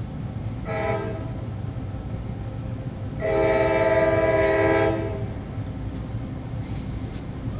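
CSX freight locomotive's air horn sounding a short blast about a second in, then a longer, louder blast of nearly two seconds, over the steady low rumble of the passing freight train.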